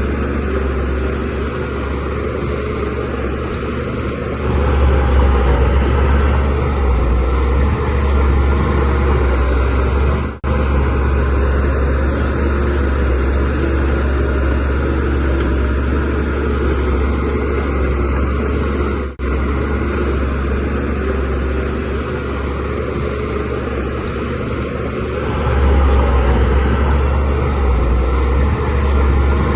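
Shantui DH17C3Pro bulldozer's diesel engine running steadily under load with a deep rumble that grows louder about four seconds in and again near the end. The sound cuts out for an instant twice.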